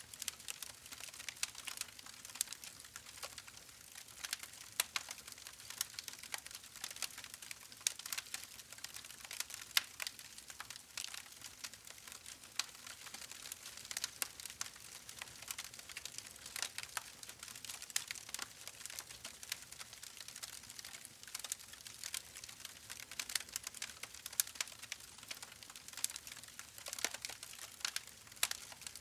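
Wood fire in a fireplace crackling: a steady stream of irregular sharp pops and snaps over a soft hiss.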